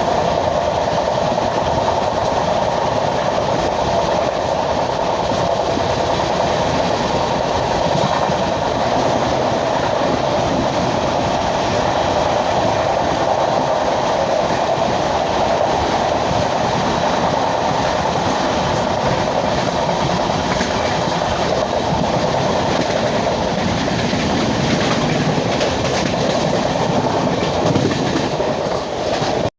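Passenger train with LHB coaches running along the track: a steady rumble of wheels on rails with clickety-clack from the rail joints.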